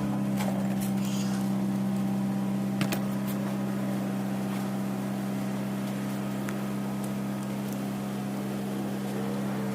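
BMW 318i engine idling steadily, with an even low hum.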